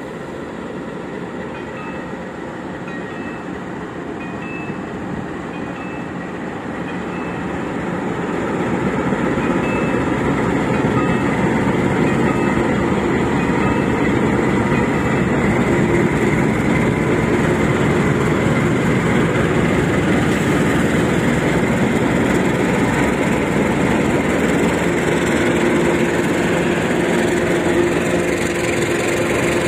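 KAI diesel-electric locomotive pulling a passenger train away from a station, its engine growing louder at about eight to ten seconds in as it draws away. The coaches' wheels then rumble steadily past on the rails.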